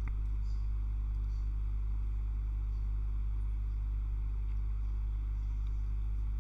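Steady low electrical hum with faint hiss, the background noise of the recording setup; one faint tick right at the start.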